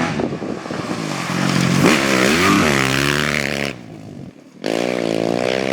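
Rally motorcycle engine revving, its pitch climbing and falling with the throttle. It breaks off for about a second past the middle, then an engine runs again.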